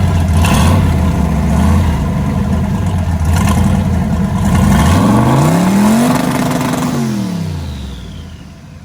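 Turbocharged car engine, its turbo newly fitted, running loud and steady, then revved once about five seconds in: the note climbs, holds briefly and falls back, with a faint falling whistle as the revs drop.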